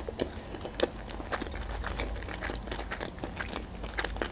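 A mouthful of sushi roll being chewed close to the microphone, ASMR-style, with many short wet mouth clicks and smacks.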